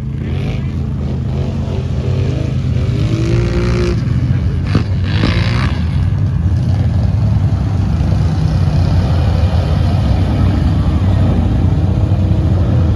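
Off-road vehicle engine running steadily, slowly growing louder.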